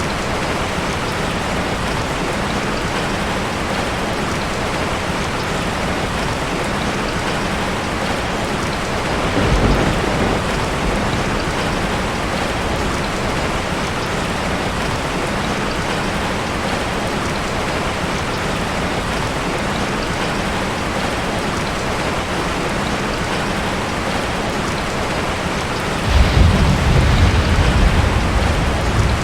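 Heavy rain pouring steadily on a tin roof, with a rumble of thunder about ten seconds in and a louder, longer rumble of thunder near the end.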